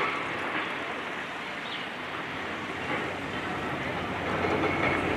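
Steady noise of demolition: a high-reach excavator working on a concrete building, with debris grinding and clattering. It grows a little louder near the end.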